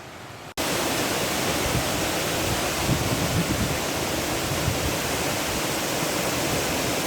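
Waterfall pouring close by: a steady, even rush of falling water that cuts in suddenly about half a second in.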